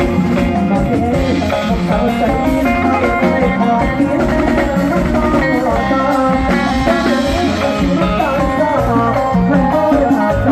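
Live mor lam band playing an instrumental passage: a busy melody line over a steady drum beat, with no singing.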